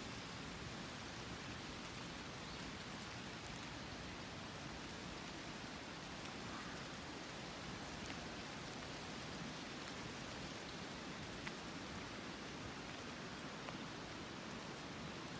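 Steady rain falling: an even hiss with scattered faint drop ticks and one sharper tick about eleven seconds in.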